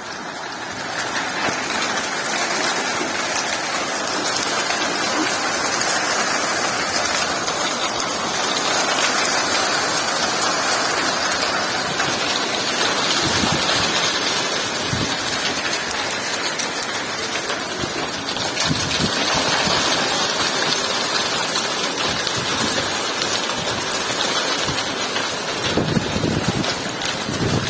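Hailstorm with heavy rain: hailstones and rain pelting hard surfaces in a dense, steady clatter made of many separate sharp impacts.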